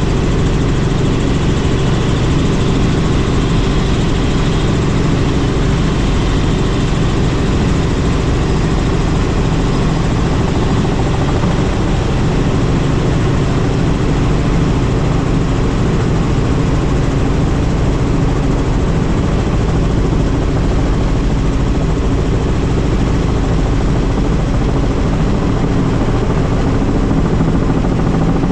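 Helicopter in flight: a steady, loud drone of engine and rotor noise, with no change in pitch.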